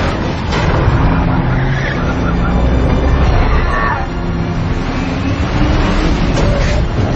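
Film car-chase sound mix: heavy vehicle engines running hard with road noise, and a couple of sharp knocks near the end.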